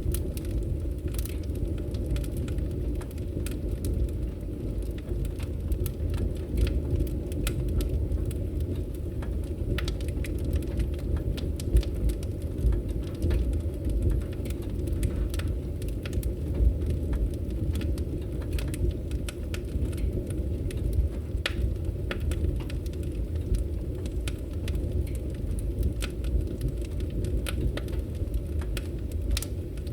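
Wood fire crackling in a fireplace: irregular sharp pops and snaps scattered throughout, over a steady low rumble of the burning logs.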